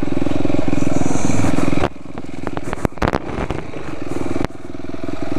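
Dirt bike engine running under throttle. It drops back sharply about two seconds in and again near the end, building up again each time, with a few sharp knocks around the middle.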